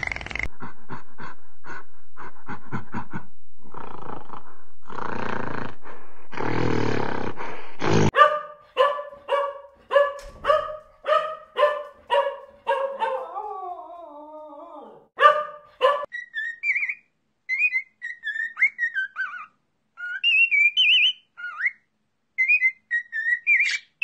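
Dog barking in a steady series, about three barks every two seconds, with a falling whine in the middle. Before it comes a run of clicks and noisy bursts, and after it short high chirping calls.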